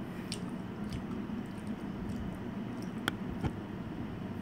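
A person chewing a mouthful of bingsu, with a few soft, short mouth clicks.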